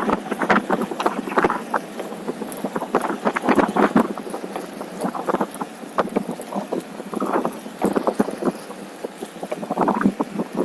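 Ride noise from a OneWheel rolling along a trail: irregular crackling and knocking from the tyre and board over the ground, with some wind on the microphone.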